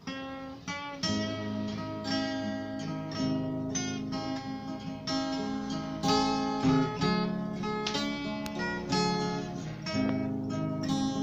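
Acoustic guitar strummed, its chords ringing and changing every second or so.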